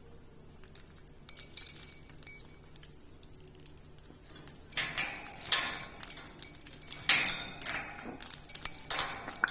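African grey parrot making a few sharp clicks, then from about halfway in a continuous run of rasping, squeaky chatter.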